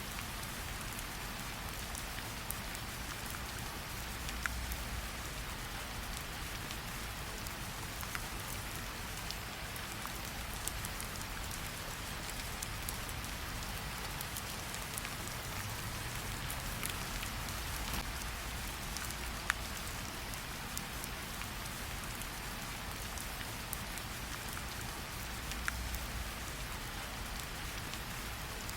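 Steady rain falling on a surface, mixed with the crackle of a campfire: an even hiss with scattered sharp ticks and pops, and a few soft low rumbles.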